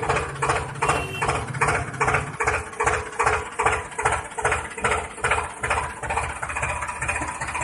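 Mini tractor's small engine chugging steadily at about three to four beats a second.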